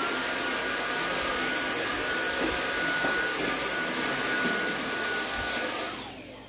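A high-speed electric motor with a rush of air spins up with a rising whine, runs steadily and loud for about six seconds, then winds down with a falling whine and stops.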